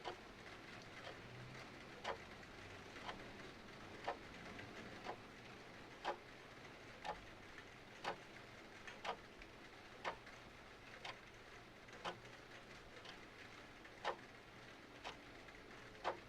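Clock ticking steadily once a second, the ticks alternating louder and softer, over a soft steady hiss of rain.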